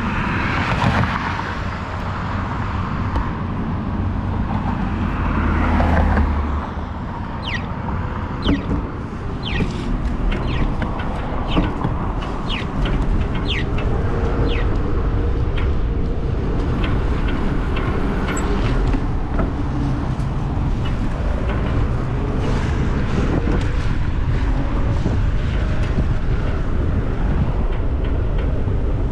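Wind rushing over the action-camera microphone and tyre rumble while riding a Giant e-bike on a paved trail. A run of short, high ticks comes about once a second partway through.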